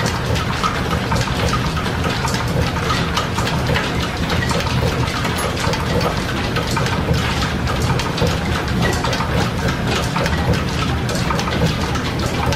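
Flat-belt-driven metal lathe and its overhead line shafting running steadily off the shop's steam engine, a continuous mechanical clatter full of rapid irregular ticks from the belts and gearing.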